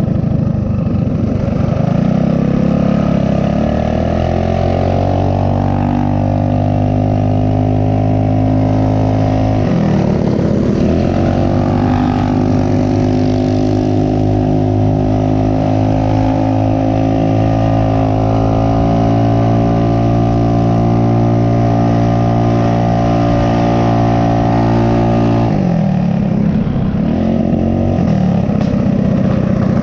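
Mini bike's small single-cylinder four-stroke engine under way. It climbs in pitch as the bike accelerates, holds a steady pitch at cruising speed, dips briefly about ten seconds in and again near the end as the throttle comes off, then picks back up.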